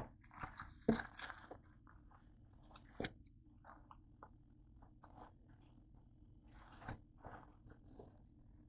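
A person chewing a Wendy's chicken sandwich close to the microphone: irregular soft chewing and mouth sounds, with a few sharper bites about one, three and seven seconds in.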